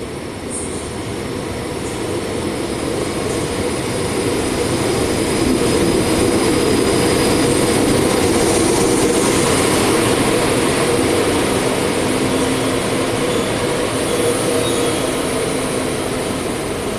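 Electric-locomotive-hauled passenger train rolling into a station. It grows louder to a peak about halfway through, then slowly eases off, with a steady hum and a faint high whine over the rumble of the wheels.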